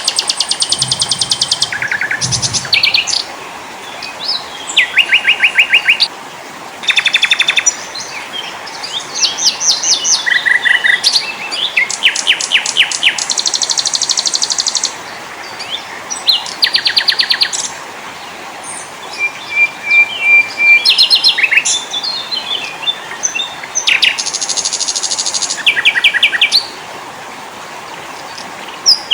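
Songs of several small songbirds layered together: a succession of rapid, high trills and strings of repeated chirps, each lasting one to three seconds, over a steady background hiss.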